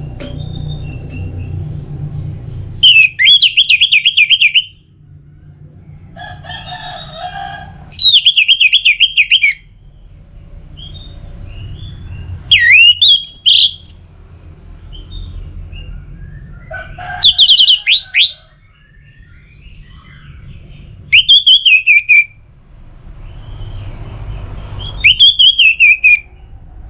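Orange-headed thrush singing: six short warbled phrases about a second and a half long, one every four seconds or so, with a low background rumble between them.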